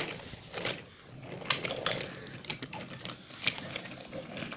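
Model trains running on the track, wheels clicking irregularly over the rail joints with a faint rolling rumble beneath.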